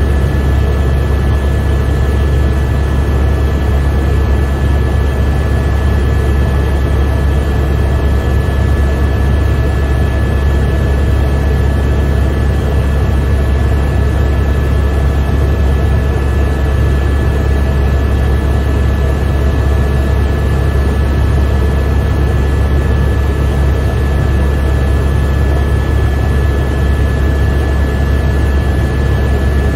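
Helicopter cabin noise in flight: a loud, steady low drone with a thin, steady high whine over it.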